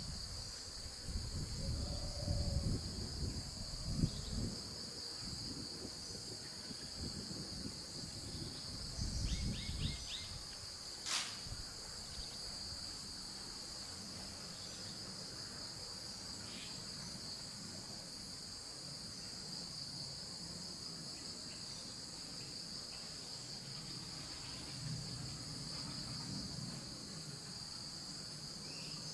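Steady, high-pitched chorus of insects. In the first ten seconds or so there are several low rumbling thuds, and a single sharp click comes about eleven seconds in.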